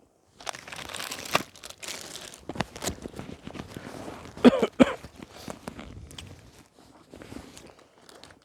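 Irregular rustling and crunching handling noise, scattered with sharp clicks, with two louder knocks close together about four and a half seconds in.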